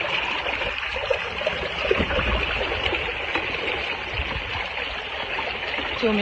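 Floodwater flowing and trickling steadily.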